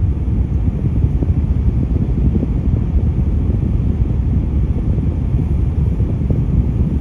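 Low, steady rumble of road traffic, heavy vehicles among it.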